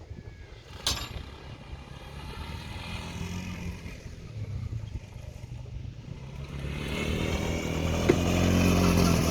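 Motocross motorcycle engines running and revving, the pitch rising and falling, growing steadily louder over the last few seconds. A sharp click about a second in.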